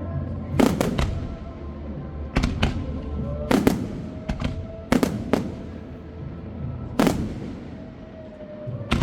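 Fireworks exploding overhead: about a dozen sharp bangs in uneven clusters, some in quick pairs and triples, with music playing underneath.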